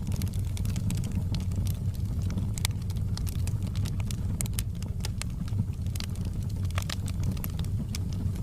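Wood fire in a fireplace crackling and popping irregularly, over a steady low rumble of the burning.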